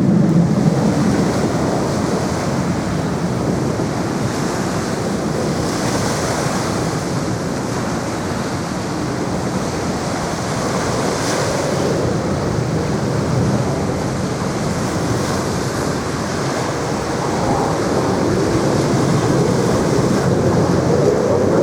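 Jet engine noise from aerobatic display jets, T-50B trainers, overhead: a broad, rumbling rush that fades a little in the middle and swells again near the end, with wind buffeting the microphone.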